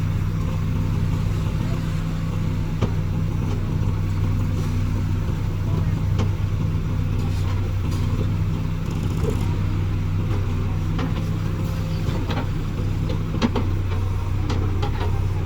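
Diesel engine of a JCB backhoe loader running steadily at a constant pace, with a few light knocks in the second half.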